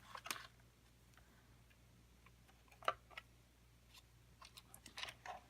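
Faint, scattered clicks and taps of a screwdriver and hands working on a robot vacuum's plastic housing, the sharpest about three seconds in and several small ones near the end, over a low steady hum.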